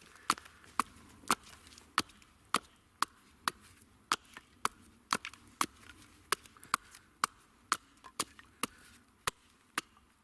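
Steady, repeated chopping into wood, about two sharp strikes a second.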